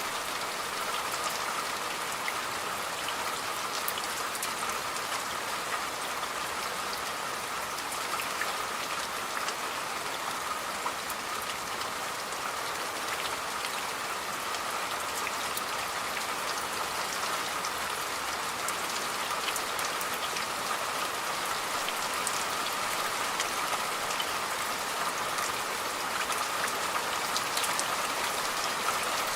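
Steady rain falling, a continuous hiss with many separate small drop impacts ticking through it.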